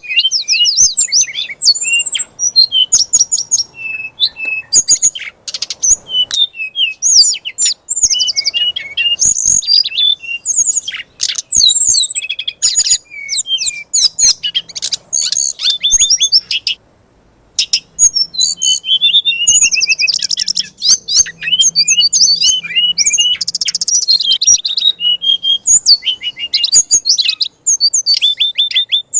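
A songbird singing a fast, varied run of chirps, whistles and trills, with a brief pause about halfway through. It is a 'fighter' song of the kind played to rouse magpie-robins.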